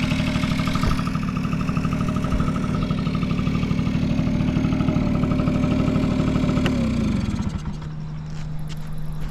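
Honda Squash scooter engine idling steadily, then switched off about seven seconds in, its pitch dropping as it runs down and stops. It runs smoothly, without any abnormal noise. A steady low hum and a few light clicks remain after it stops.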